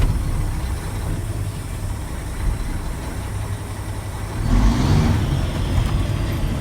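Tractor-trailer's diesel engine running steadily as the truck creeps forward in first gear. About four and a half seconds in there is a louder surge with a rising engine note and a rush of noise.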